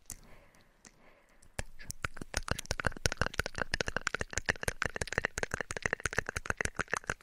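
A fast run of sharp, close-up taps and crackles, about ten a second, starting about a second and a half in: an ASMR trigger played close to a binaural microphone.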